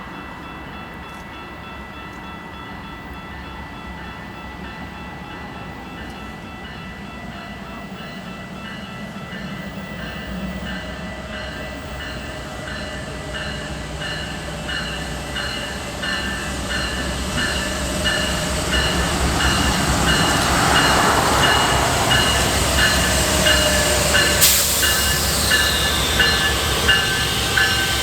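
Train approaching, its low rumble growing steadily louder. Over it runs a steady high ringing that pulses about once a second, and there is one sharp crack near the end.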